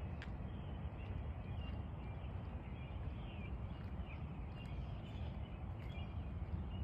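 Many small birds chirping and twittering at once, short calls scattered throughout, over a steady low rumble.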